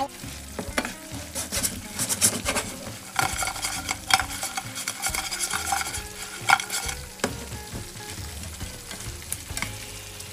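Oil sizzling as chicken fries, with a wooden spatula scraping and knocking against a non-stick frying pan as fried chicken pieces are stirred in butter. The knocks come thick from about one to seven seconds in, then it settles to mostly sizzling.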